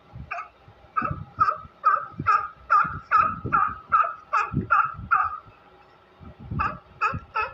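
Sea lion barking, a fast run of short honking barks at about three a second, breaking off briefly about two-thirds of the way through and then starting again.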